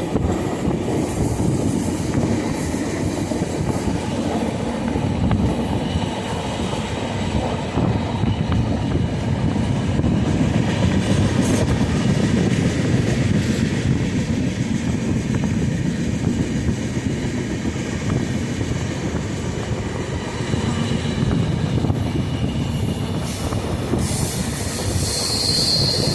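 Steady noise of a moving vehicle, with a brief high-pitched squeal near the end.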